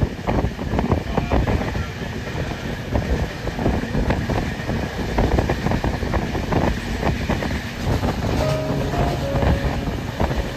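Passenger train running on the track: a continuous rumble with irregular clattering and rattling from the wheels and coaches. Near the end, music with held notes comes in over it.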